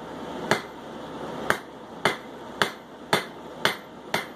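Hand hammer striking hot 3/8-inch steel bar on an anvil: seven sharp blows with short ringing, spaced irregularly at first, then about two a second. The smith is drawing the stem of the bar from octagon to round.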